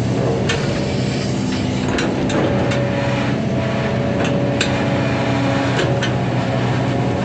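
Hydraulic excavator's diesel engine running steadily, with a scatter of sharp clicks and knocks through it.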